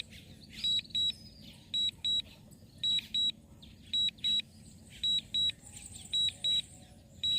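Drone remote controller's warning alarm: a pair of short, high-pitched beeps repeating about once a second, sounding while the DJI Mini 3 Pro is at the edge of its range.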